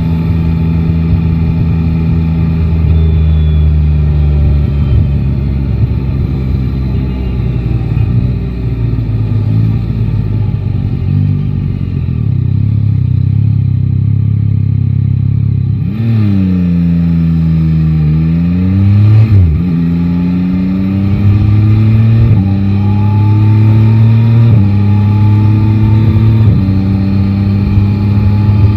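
Yamaha Tracer 9 GT's three-cylinder engine running under way, holding a steady pitch and then easing off for the first half. After a pitch dip and rise about sixteen seconds in, it climbs again in several steps as the bike picks up speed.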